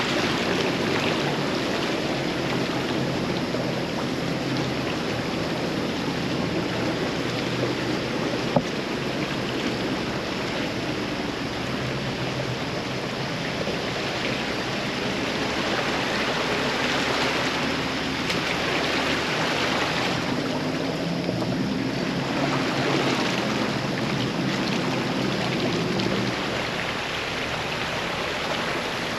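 Off-road vehicle driving through a creek crossing: steady rushing and splashing of water over the low, steady hum of the engine, with one sharp click about a third of the way through.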